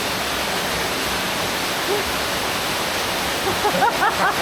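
Waterfall water rushing and pouring in a steady, loud, even roar, with faint voices near the end.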